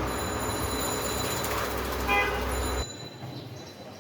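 Steady street traffic noise with a low rumble and a short double horn toot about two seconds in. It cuts off abruptly near three seconds to a much quieter background.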